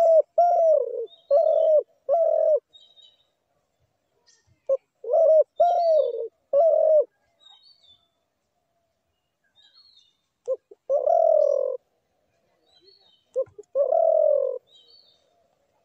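Spotted dove cooing: four phrases, each opening with a short note. The first two run on in three quick coos; the last two end in one long drawn-out coo. Faint high chirps of small birds sound between the phrases.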